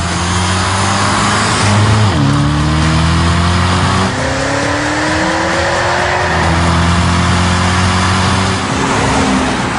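Alpina B6's V8 engine and Akrapovic titanium exhaust pulling hard under acceleration. The note dips about two seconds in, then climbs steadily for several seconds.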